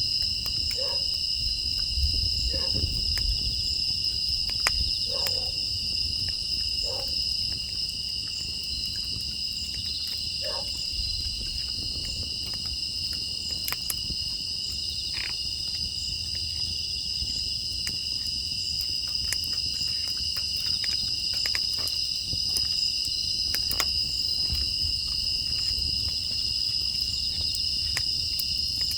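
Steady chorus of grass insects (crickets) chirring in several high pitches, with scattered faint clicks and pops from a crackling wood fire.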